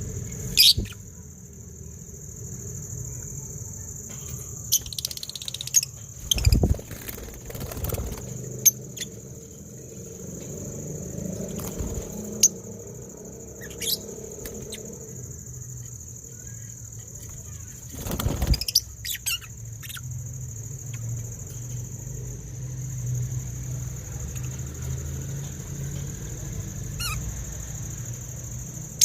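Birds giving occasional short, sharp chirps that sweep downward in pitch, with a few louder brief thumps, over a steady high hiss and a low hum.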